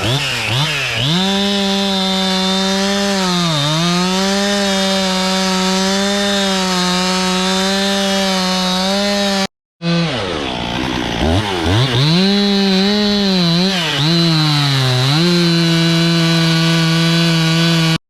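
Stihl two-stroke chainsaw held at full throttle and cutting wood, its high engine note sagging several times as the chain bites and pulling back up. It cuts out for an instant about halfway through and carries on.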